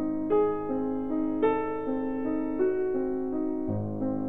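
Piano music, a slow melody of sustained notes.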